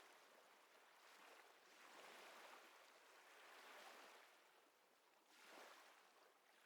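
Faint ocean surf: a soft hiss that swells and fades every second or two.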